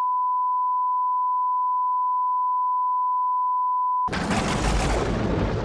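A steady, unwavering 1 kHz test tone that cuts off suddenly about four seconds in, at which point loud music begins.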